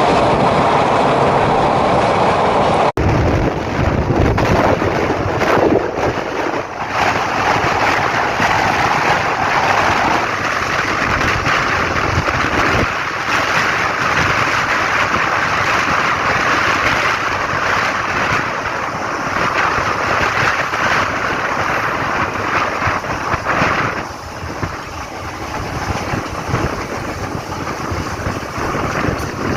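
DEMU (diesel-electric multiple unit) train running along the track, heard from on board as a loud steady rumble with wind rushing over the microphone. About three seconds in, the sound changes abruptly.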